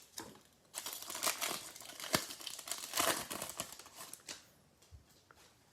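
A 2020 Select Football trading-card pack wrapper crinkling and tearing as it is opened and handled, with an irregular crackle for about four seconds. It then dies down to a couple of faint ticks.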